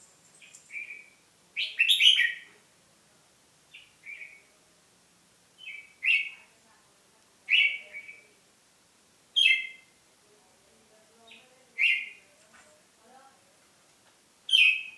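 A caged songbird singing short, clear phrases, one every one and a half to two seconds.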